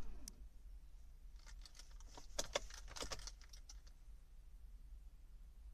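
Faint jingling clicks of car keys being handled, a short cluster a second and a half in, just before a cold start.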